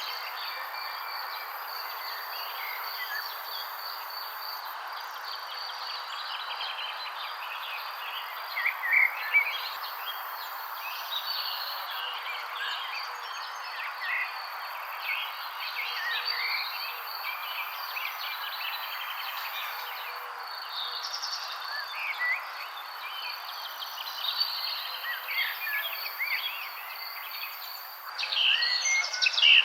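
Birds chirping and calling in many short notes over a steady high insect trill, like crickets, with a busier flurry of calls near the end.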